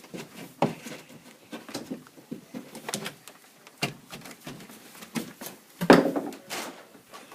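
Irregular knocks, taps and scrapes at a hollow drywall wall, the loudest a thump about six seconds in.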